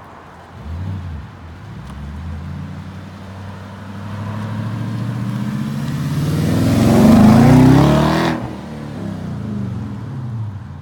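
Audi S5 engine heard through its exhaust with the cutouts, accelerating and growing steadily louder. It peaks about seven to eight seconds in, then the sharper top of the sound cuts off suddenly and the engine note falls away.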